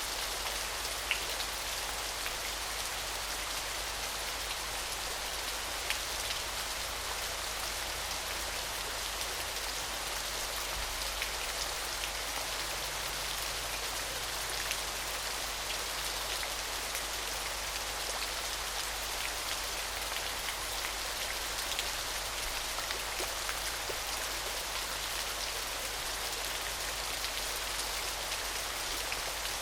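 Small waterfall splashing and pattering steadily, a shimmering hiss with fine drips scattered through it.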